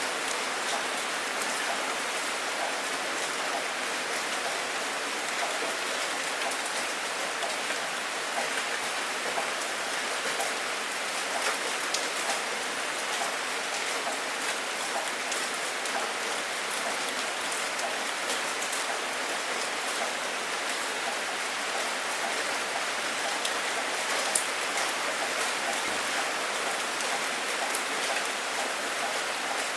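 Steady rain falling, with many separate drop hits ticking through it and one sharper drop hit about three quarters of the way through.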